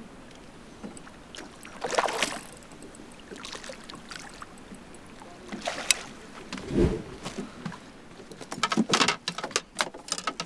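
Irregular splashes and knocks on a bass boat: noisy bursts about two and six seconds in, a dull thump about seven seconds in, and a flurry of sharp knocks near the end.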